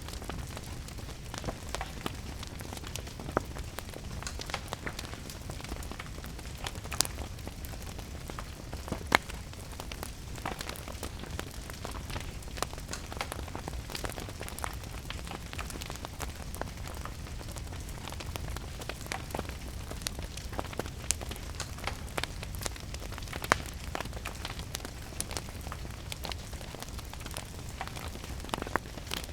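Wood fire crackling in a fireplace, with irregular sharp pops scattered throughout, over steady rain and a low rumble.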